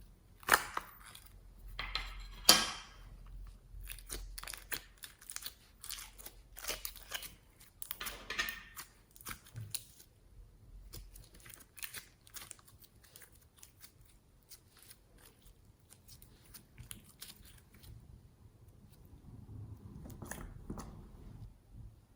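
Slime being worked by hand, giving sharp crackling pops and clicks. Two loud pops come within the first three seconds, the crackling is dense for about ten seconds, and it then thins to scattered clicks.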